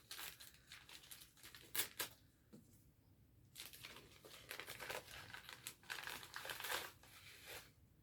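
Gift wrapping crinkling and rustling as a present is unwrapped, in two spells with a short pause about three seconds in, and a couple of light clicks just before the pause.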